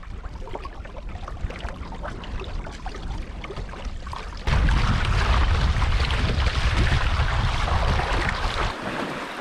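Wind and waves on open water heard from a small canoe, with wind buffeting the microphone. The sound gets abruptly louder about four and a half seconds in, with a heavy low rumble, and eases off near the end.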